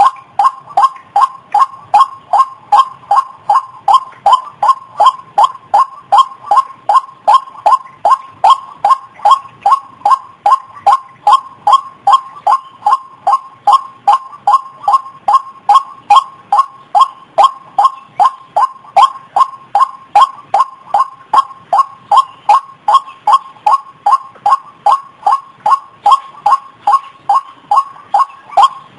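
White-breasted waterhen calling, short 'kwak' notes repeated over and over at about three a second: a lure call used to attract the bird.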